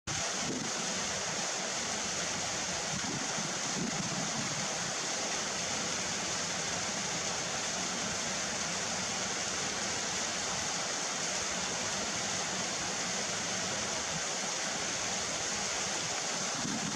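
Steady rushing noise of strong wind, even and unbroken, with a hiss high up.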